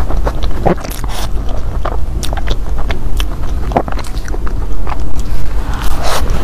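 A person biting and chewing a flaky filled pastry close to a clip-on microphone: irregular crackles, crunches and wet mouth clicks, over a steady low hum.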